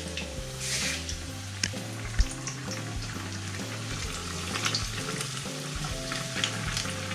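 Bread pakoras sizzling and crackling as they deep-fry in hot oil in a steel kadhai, with metal utensils clicking against the pan as they are turned. There is one sharp clink about two seconds in.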